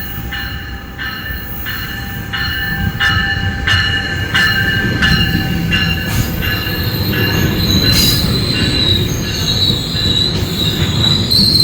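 GO Transit commuter train pulling into the station. A low rumble grows slowly louder, with a regular ringing clang about one and a half times a second. From about halfway a high, steady wheel squeal comes in and becomes the loudest sound.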